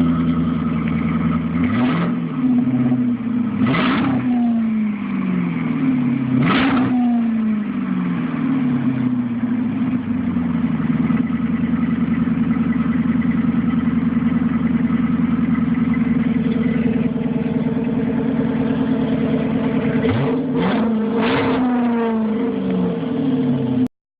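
2007 Dodge Charger R/T's 5.7 L Hemi V8 through a stock exhaust with the center muffler deleted, idling with a steady burble and revved sharply several times: three revs in the first seven seconds, a long idle, then two quick blips in a row near the end before the sound cuts off.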